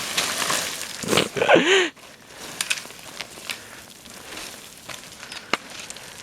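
Footsteps scrambling over loose rock and gravel: crunching at first, then scattered sharp clicks of stones underfoot. About a second and a half in comes a short vocal sound that rises and falls in pitch, then cuts off suddenly.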